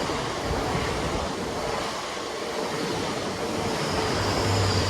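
GWR Class 800 bi-mode train passing through on its diesel engines. It makes a steady rush of wheel and engine noise with a low hum and a faint high whine.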